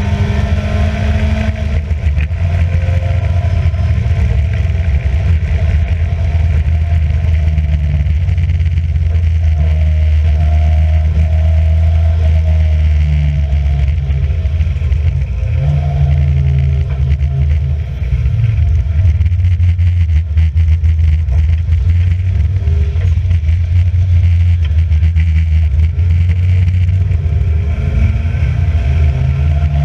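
Historic racing car's engine running hard at speed, its revs rising and falling as it accelerates, lifts and changes gear.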